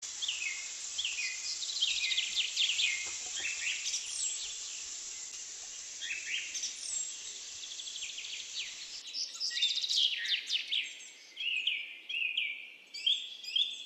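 Birds chirping: a dense chorus of many short, falling calls, thinning near the end to a quick repeated falling chirp.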